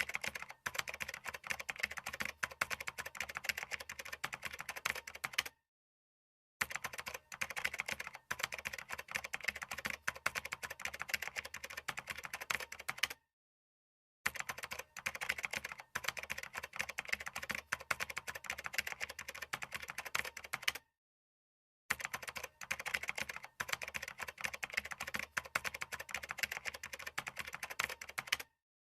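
Rapid typing on a computer keyboard, a dense run of key clicks, in stretches of about six and a half seconds broken three times by a second of dead silence.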